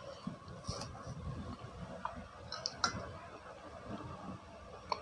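Close-miked soft chewing of cilok, chewy tapioca balls, with a few light clicks of a metal spoon against a glass plate, the sharpest about three seconds in.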